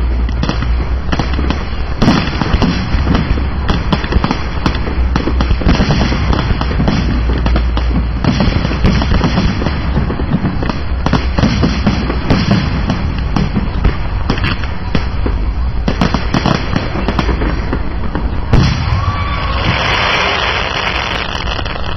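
Fireworks display: a dense, continuous barrage of bangs and crackling shells, with a short rising whistle about nineteen seconds in.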